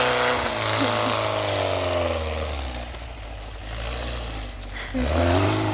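Air-cooled Volkswagen flat-four engine running, its note fading and dropping away over the first few seconds, then revving up again near the end.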